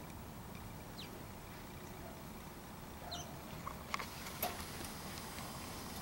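A few brief, faint small-bird chirps, one falling in pitch, over steady outdoor hiss, with a couple of sharp clicks about two thirds of the way through.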